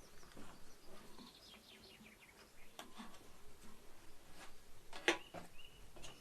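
Small birds chirping, with a quick run of short falling chirps in the middle and a held high note near the end. A few sharp knocks or clicks come between them, the loudest about five seconds in.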